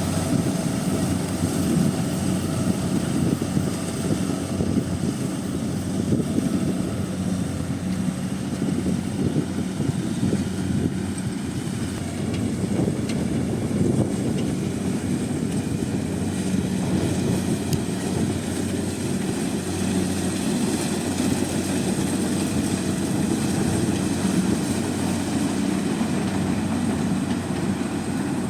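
Combine harvester's diesel engine and machinery running steadily while harvesting rice, a constant low drone.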